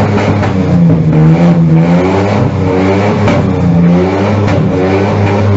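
Lamborghini Aventador's V12 engine revving up and down repeatedly through its exhaust, with sharp crackles mixed in.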